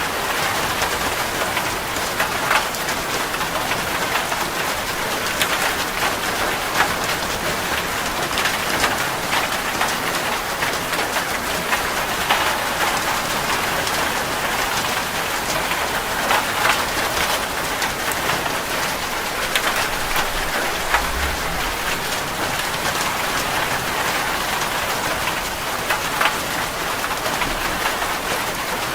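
Steady rain falling, a constant hiss with many individual drops tapping sharply on a surface.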